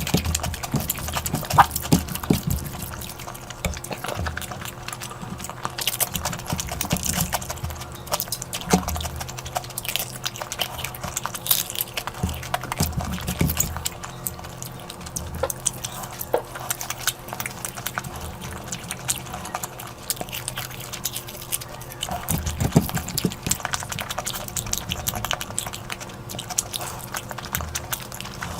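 Close-miked eating sounds: wet chewing and lip smacking with dense, irregular clicks as a mouthful of curry is eaten.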